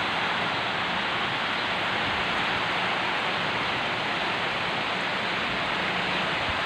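Heavy rain pouring down: a steady, dense hiss with no breaks.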